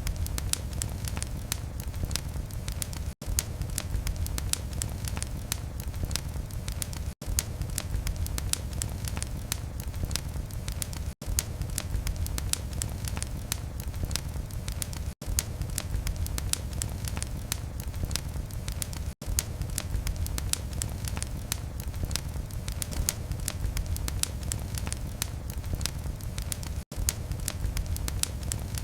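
Wood fire burning in a fireplace: dense, irregular crackles and pops over a steady low rumble, broken by a split-second gap about every four seconds.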